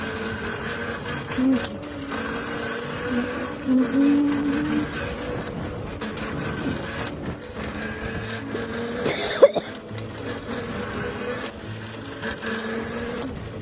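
Electric dirt bike's motor whining steadily while riding, over low road and wind noise. A single sharp knock about nine seconds in.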